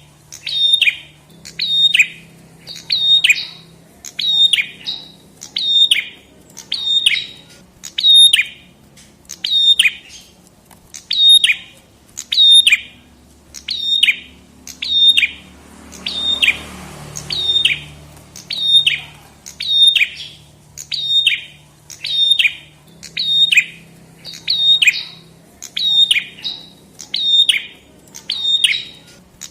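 Prenjak kepala merah calling: one sharp, high note that sweeps quickly downward, repeated over and over at an even pace of roughly three notes every two seconds. A short hiss of noise passes under the calls about halfway through.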